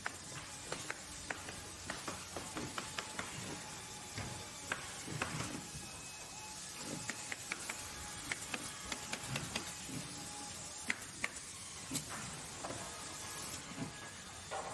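Factory work noise: a steady hiss of machinery with irregular sharp clicks and knocks, several a second at times.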